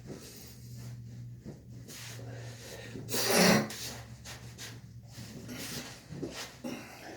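A person breathing, with one loud short breath or grunt about three seconds in, amid soft rubbing and rustling.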